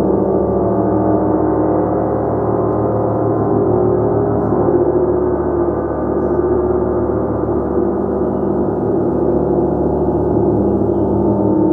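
Gong played continuously, a dense, steady wash of many overlapping tones with a fast shimmering pulse and no single strike standing out.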